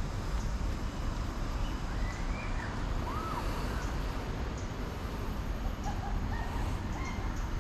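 Steady low rumble of wind on the microphone, with a bird giving a few short arching whistled calls about two seconds in and again near six to seven seconds.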